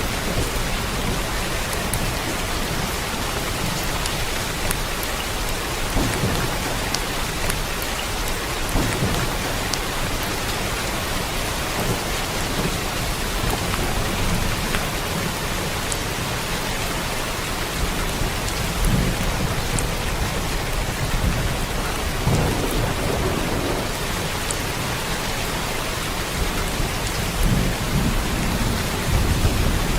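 Steady rain, an even hiss, with low rumbles of thunder swelling now and then; the strongest rumble builds near the end.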